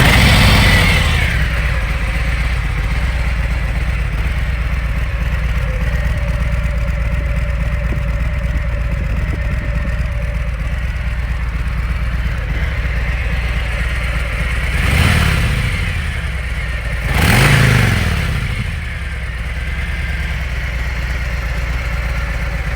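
2019 Harley-Davidson Softail Breakout's Milwaukee-Eight V-twin idling through its stock exhaust just after starting, a little louder in the first second before settling to a steady idle. Two short throttle blips come about fifteen and seventeen seconds in, the second one bigger.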